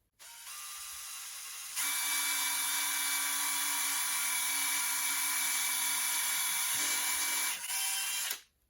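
Power drill with a 4 mm bit running steadily with a motor whine, boring through a stack of 3D-printed plastic spacers. It gets louder about two seconds in and stops shortly before the end.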